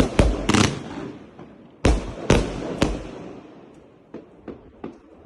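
Consumer firework battery shots bursting overhead: sharp bangs, several in quick succession near the start and again about two seconds in, each trailing off in a rolling echo, then a few fainter pops near the end.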